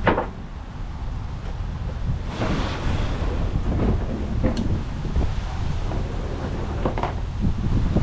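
Wind buffeting the microphone: a loud, steady low rumble, broken by a few brief sharp sounds, one right at the start and two more later.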